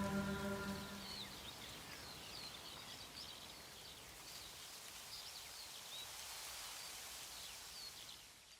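Quiet outdoor ambience of small birds chirping over a steady background hiss, after a music chord stops about a second in; it all fades out near the end.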